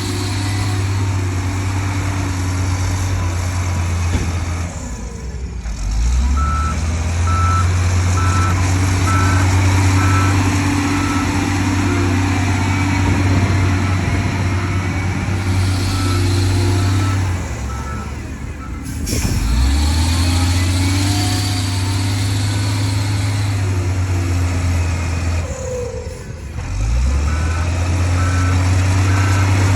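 Heavy diesel earthmoving machine running steadily. Its engine dips and climbs back three times, and a reversing alarm beeps about twice a second in two stretches: after the first dip, and again near the end.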